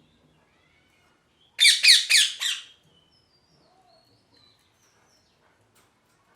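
Ringneck parrot giving a quick run of about four loud, harsh squawks, each falling in pitch, about a second and a half in, followed by faint high chirps and whistles.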